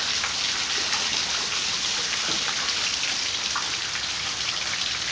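Steady rain falling, a dense hiss with the patter of individual drops hitting surfaces close by.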